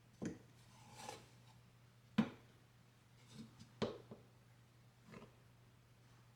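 Light knocks and taps of things being handled and set down, about six spread unevenly, the sharpest about two seconds in and just before four seconds, over a faint steady hum.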